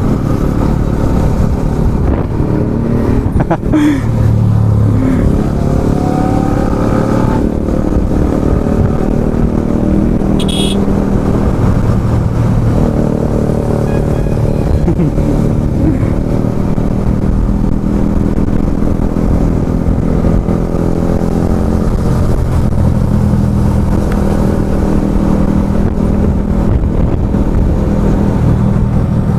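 Yamaha R15M's single-cylinder engine running steadily under way, its note rising and settling a few times, with a brief high-pitched tone about ten seconds in.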